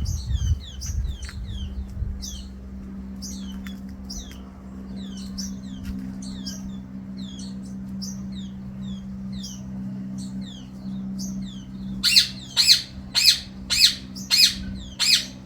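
Small birds chirping rapidly in short, high, falling notes. From about twelve seconds in, a louder bird squawks over them, about two or three calls a second. A low steady hum lies underneath.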